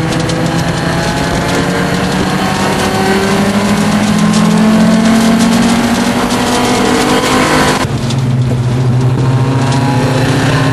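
Audi race car's engine heard from inside the cabin, pulling hard with its pitch rising steadily under acceleration. About three-quarters of the way through, the pitch drops suddenly at an upshift, then starts climbing again. Road and wind noise run throughout.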